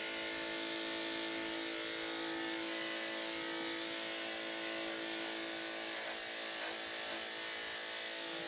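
Electric dog grooming clippers running steadily with an even hum, trimming a Shih-Tzu's coat.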